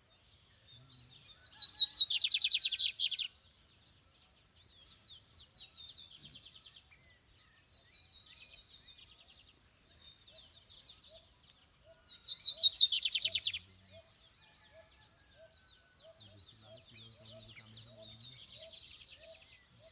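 Wild songbirds singing: twice a loud phrase of rapid repeated high notes rings out, about ten seconds apart, over a steady chorus of fainter chirps from other birds.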